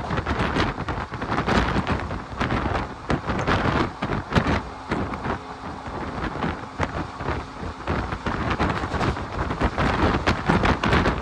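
Wind buffeting the microphone over the running noise of a moving passenger train, with a dense, uneven rush and many short knocks throughout.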